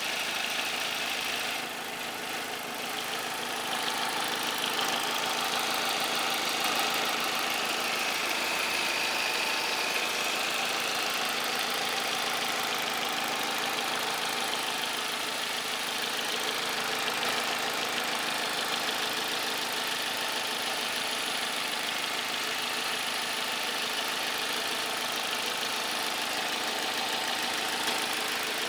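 Vauxhall Vectra C 2.2 SRi engine running steadily with a ticking noise.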